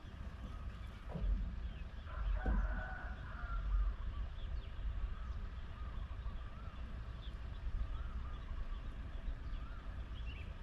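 A bird calling, with one drawn-out call about two seconds in and a few fainter short calls later, over a steady low rumble.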